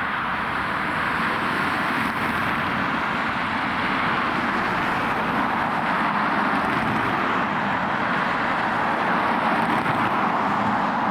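Jet airliner engines giving a steady rushing noise that slowly grows a little louder.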